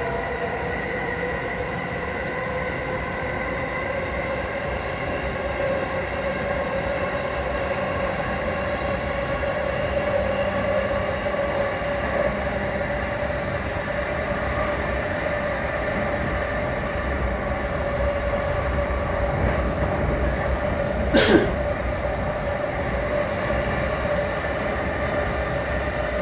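Electric commuter train running at steady speed, heard from inside the carriage: a continuous rumble of wheels on rail with a steady whine of several tones from the drive. A brief sharp noise about three-quarters of the way through is the loudest moment.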